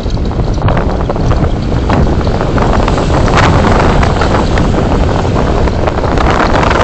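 Steady rumble of road and wind noise in a moving car, picked up by its dashcam, with scattered small knocks and rattles.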